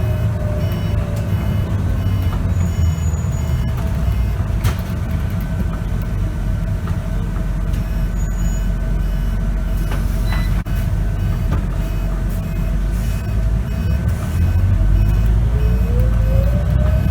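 Scania K94UB bus heard from inside, running with a steady low engine and road rumble. Near the end the engine note rises as the bus accelerates through its ZF automatic gearbox. A faint short beep repeats about twice a second throughout.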